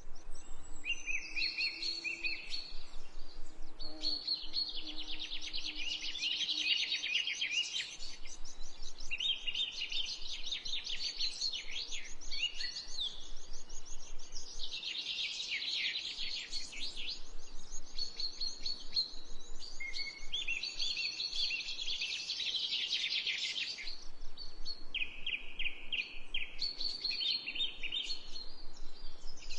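A chorus of many small birds chirping and trilling rapidly and continuously, in overlapping bouts of high-pitched calls.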